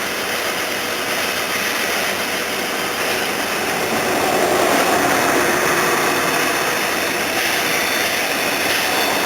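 Steam-hauled train running, a steady rushing noise that swells a little around the middle.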